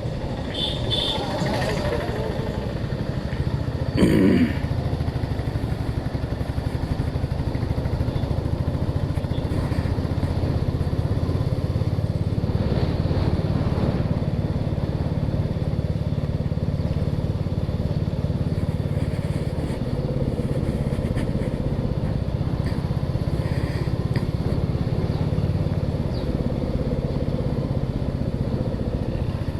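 Motorcycle engine running steadily under way, with a short, louder sound rising in pitch about four seconds in.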